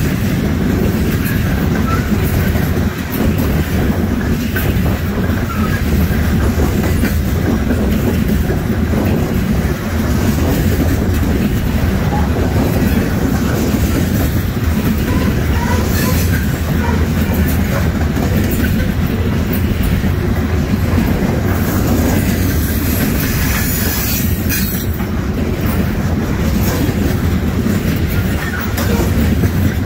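Loaded coal hopper cars of a freight train rolling past close by: a steady low rumble of steel wheels on rail, with clickety-clack over the rail joints and faint wheel squeal now and then.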